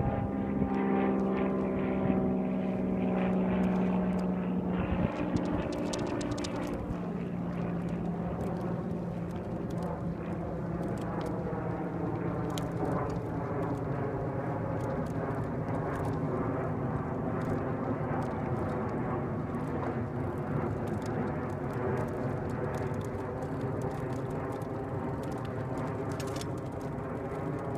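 A distant engine droning steadily, its pitch sliding a little lower over the first few seconds and then holding.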